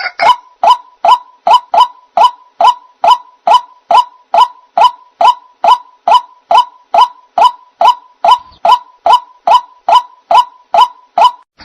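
White-breasted waterhen (ruak-ruak) lure call: one short, sharp note repeated at an even pace about twice a second.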